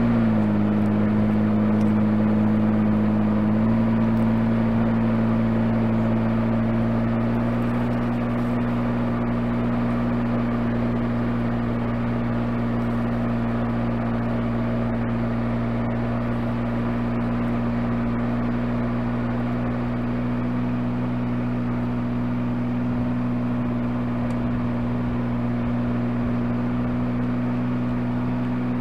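4x4 vehicle's engine running at low, steady revs while the vehicle creeps down a dirt slope: a steady hum that dips slightly in pitch at the start and shifts a little about three and a half seconds in.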